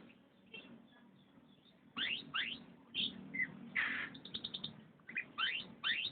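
Canary singing: after a quiet start, a run of rising chirps, a quick trill and more rising chirps in the second half.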